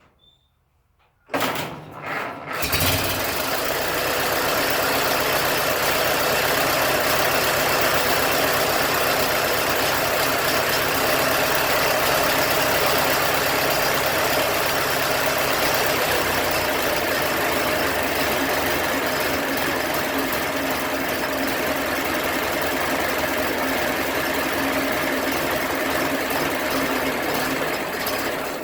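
A 1927 Ford Model T's rebuilt four-cylinder flathead engine starting about a second and a half in, catching almost at once, then running steadily.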